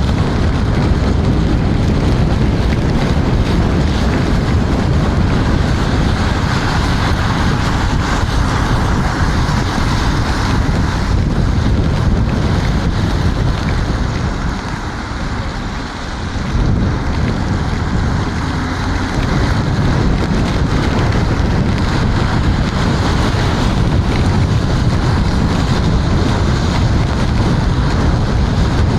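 Steady wind rush on the microphone while riding an electric scooter on a wet road. It eases briefly about halfway through, then comes back.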